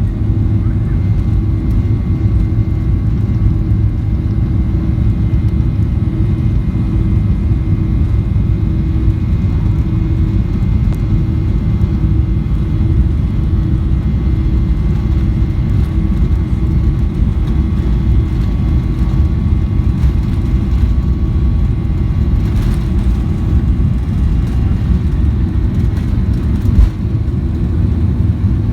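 Airliner jet engines and airflow heard inside the passenger cabin during take-off: a loud, steady deep rumble with a few faint steady tones above it.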